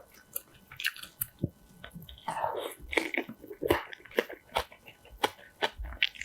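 Close-miked chewing of kimchi: irregular crunchy bites and wet, squishy mouth sounds, with a longer crunching stretch a couple of seconds in.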